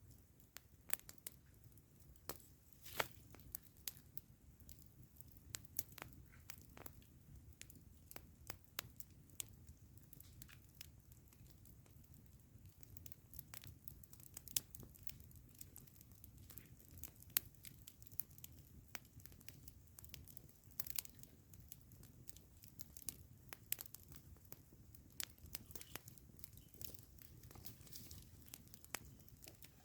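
Wood campfire crackling: irregular sharp pops and snaps, several a second, over a faint low rush.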